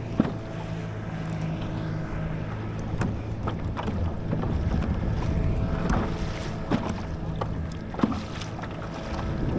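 Water sloshing and knocking against a kayak's hull, with scattered sharp knocks, wind on the microphone and a steady low hum underneath.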